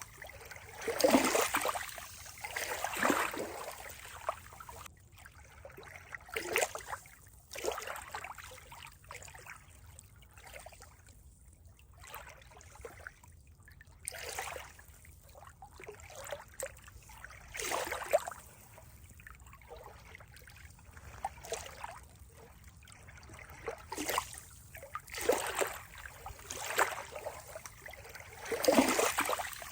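Water trickling and splashing in irregular surges, with a few louder splashes among quieter lapping.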